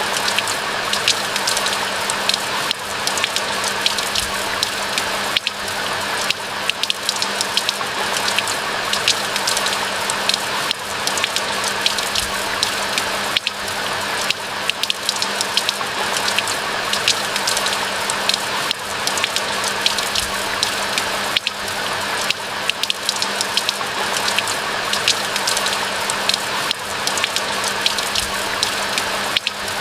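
Steady rain falling, a dense, even patter of countless drops, with a faint steady low hum underneath.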